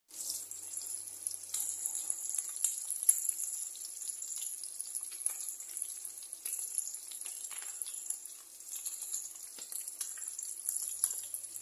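Small battered fish frying in hot oil in a pan: a steady sizzle with frequent little pops and crackles, one sharper pop about three seconds in.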